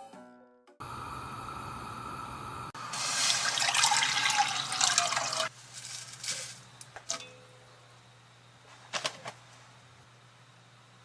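Water running: a steady stream starts about a second in, then turns louder and splashier for about three seconds, its pitch falling, before cutting off. A few light clicks or knocks follow.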